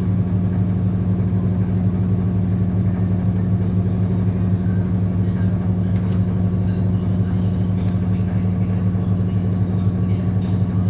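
Sharp washing machine running with a loud, steady motor hum and a few faint ticks.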